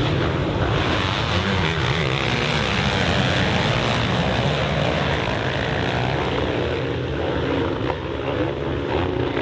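Motocross bike engine running hard, its pitch rising and falling as the rider works the throttle through the gears.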